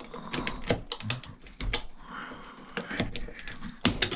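Small pry bar clicking and scraping against an extruded aluminium heat sink as it is worked at to pry it loose. An irregular run of sharp metal clicks and taps, with one louder click near the end.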